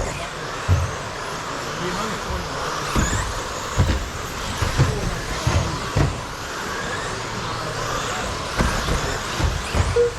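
A pack of 1/10-scale stadium trucks with 13.5-turn brushless electric motors racing on a carpet track, the motors whining up and down in pitch as the trucks speed up and slow down, with scattered short low thumps.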